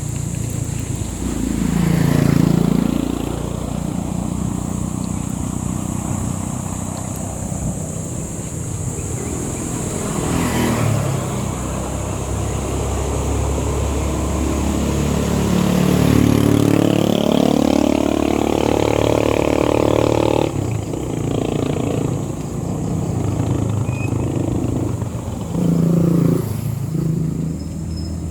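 Motorcycle engine running under way, its pitch rising as it accelerates and dropping at gear changes. The longest climb breaks off suddenly about twenty seconds in.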